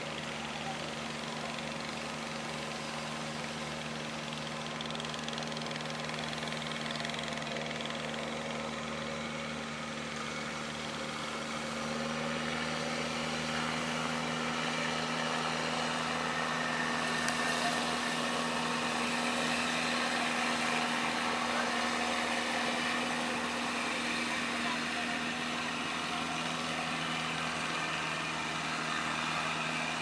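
Boat engine running steadily at a constant pitch, over a steady rushing noise; it grows a little louder about twelve seconds in.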